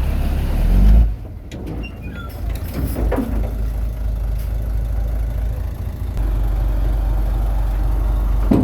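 Heavy diesel engine of earthmoving machinery running steadily with a low rumble. It eases off about a second in and picks up again near six seconds, with a few brief high squeaks early on.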